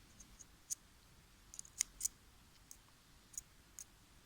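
Small, sharp metallic clicks, a handful spread over a few seconds with two louder ones close together near the middle: tweezers poking and ticking against the inside of a DJ mixer's crossfader while its contacts are cleaned.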